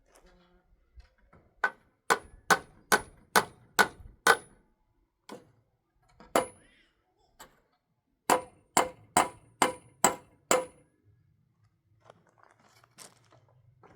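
Hammer blows with a metallic ring: a quick, even run of six strikes, a single strike, then another run of six.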